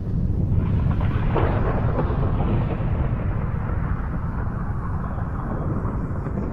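Thunder rumbling: a low, rolling roar that swells just after the start and then holds steady.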